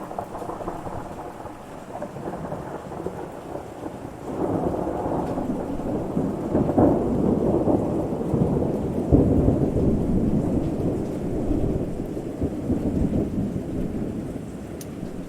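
Thunder rumbling over steady rain, with a long rolling peal that swells up about four seconds in, is loudest midway, then slowly fades.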